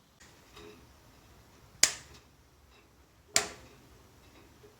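Two sharp clicks about a second and a half apart, over faint low handling noise.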